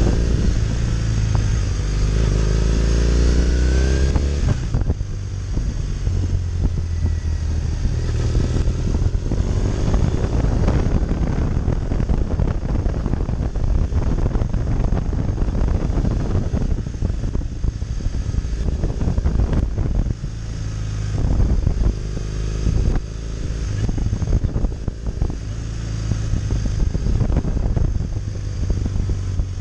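Triumph Thruxton 900 motorcycle's air-cooled parallel-twin engine, heard from the rider's seat. It climbs in pitch under throttle for the first few seconds and drops suddenly about four seconds in as the throttle closes. It then runs on at lower revs under heavy wind noise on the microphone.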